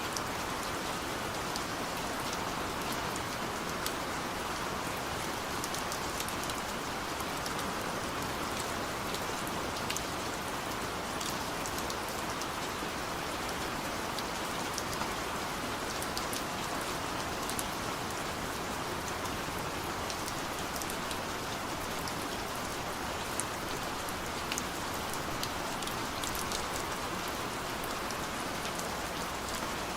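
Heavy rain pouring steadily, an even hiss of rainfall with scattered sharp ticks of individual drops striking.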